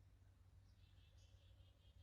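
Near silence: faint room tone with a low hum, and a very faint high fluttering sound in the second half.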